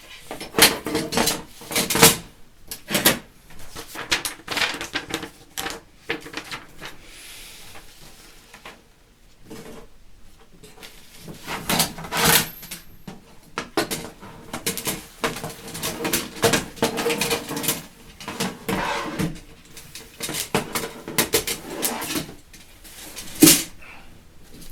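Stainless-steel fire pit parts clinking and clanking irregularly as they are handled and fitted together, with a few louder metal knocks.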